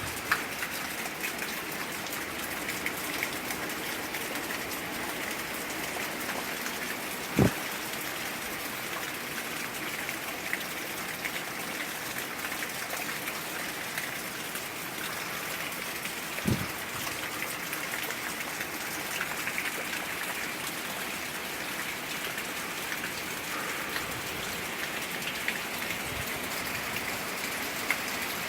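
Steady, heavy wind-blown rain from a tropical storm squall, hissing evenly. Two sharp knocks cut through it, about seven and a half seconds in and again about sixteen seconds in, the first the louder.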